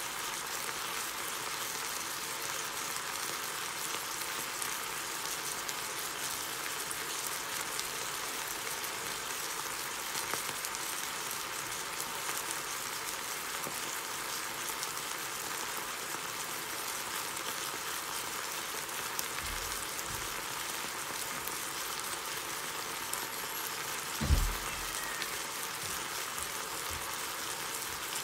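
Beef cubes and vegetables steadily sizzling in their juices in a frying pan. A single dull thump about 24 seconds in.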